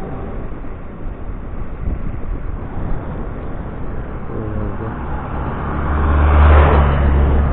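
Riding noise from an electric scooter on a trail: wind on the microphone and tyre rumble, with a low hum coming in about four seconds in and the rumble growing louder near the end.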